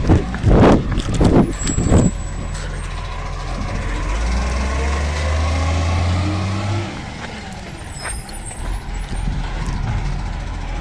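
Garbage truck collecting green waste: a run of loud knocks in the first two seconds, then the engine revs up about four seconds in, holds, and drops back near seven seconds, with a faint air hiss shortly after.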